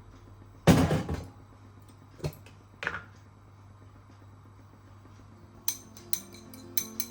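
Household handling sounds: one heavy thump about a second in, two lighter knocks, then a run of light clinks like dishes and utensils being set down near the end.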